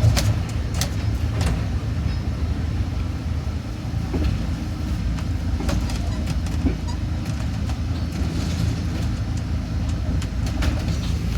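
A train running: a steady low rumble with scattered short clicks and rattles.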